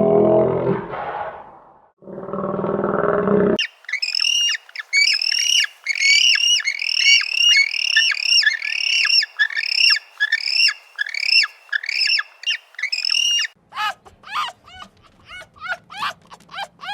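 A low-pitched sound with a short break, then a bird calling over and over, about two falling squawks a second, then quicker, thinner chirps near the end.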